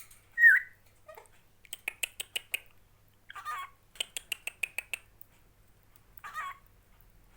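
Pet parrot giving a short loud squawk about half a second in, then two rougher calls later, with two runs of quick sharp clicks, about five to six a second, between them.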